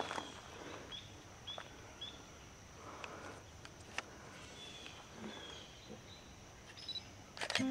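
A small bird calling faintly in the woods: short, high chirps repeated about every half second in the first two seconds, then a few fainter ones. A faint steady high tone runs underneath, and there are a couple of footsteps on gravel near the end.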